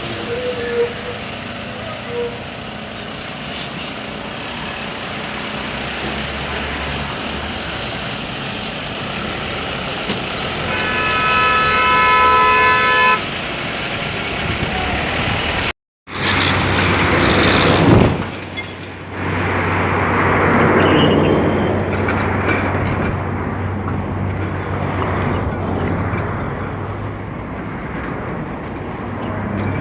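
Heavy traffic and engine noise on a busy road, with a vehicle horn held for about two seconds midway. After a short break in the sound, a diesel engine runs louder, swelling briefly.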